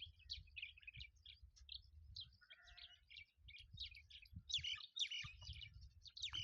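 Small birds chirping in quick, repeated short calls, with a faint low rumble underneath.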